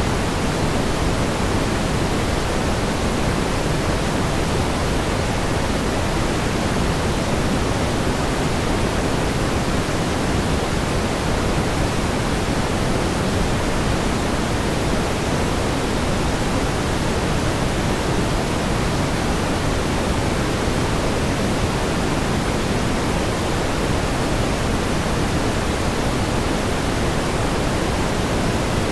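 Steady pink noise: an even, unchanging hiss weighted toward the low end, with no pattern or events.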